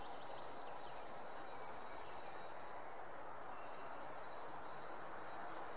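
Quiet outdoor nature ambience: a steady soft hiss with a high, thin trill from an insect or bird that fades out about two and a half seconds in.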